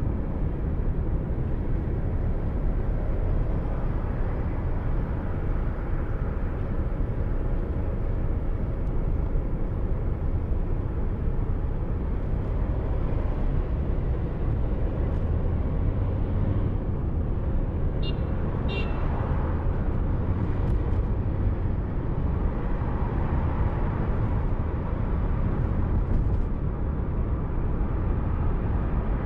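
Steady road and engine noise of a car driving, picked up by a dashcam inside the car. Two short high-pitched chirps come about two-thirds of the way through.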